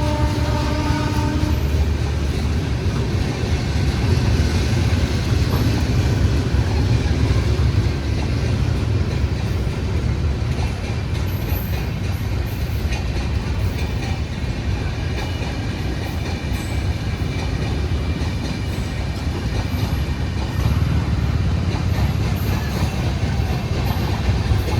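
Train running with a steady low rumble. A train horn is already sounding and stops about a second and a half in.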